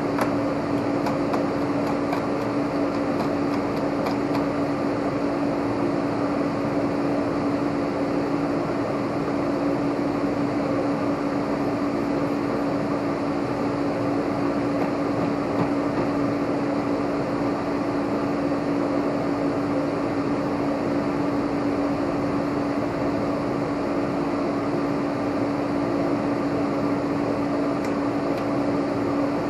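Steady machine hum with one constant mid-pitched tone, unchanging throughout.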